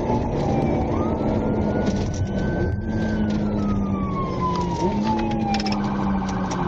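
Police car siren in a slow wail, falling, rising, then falling again, before switching to a rapid yelp near the end, over steady engine and road noise from a vehicle at speed.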